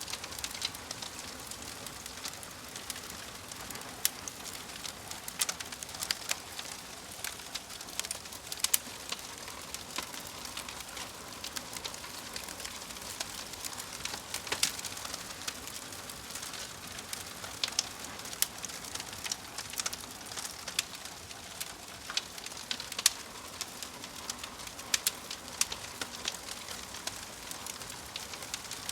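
Wood fire crackling: a steady hiss with frequent sharp pops and snaps at irregular intervals.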